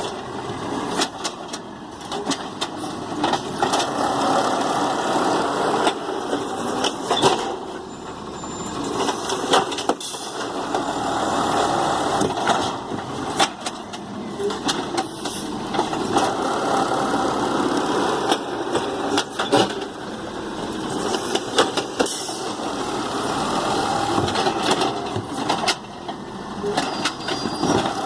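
Garbage truck engine running and revving up and down in cycles of about six seconds, with scattered sharp knocks and clanks.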